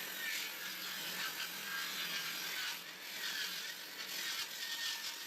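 Bench circular saw cutting the first pass of a rabbet along a eucalyptus board: a steady, subdued hiss of blade on wood with a faint hum.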